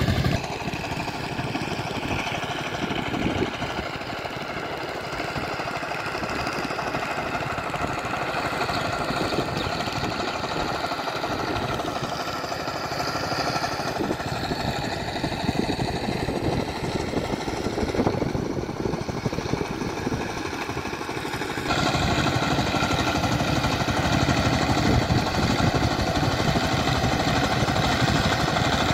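Power tiller's engine running steadily with a hard, knocking beat under load. The sound shifts abruptly twice, just after the start and about three-quarters through, and is louder after the second change.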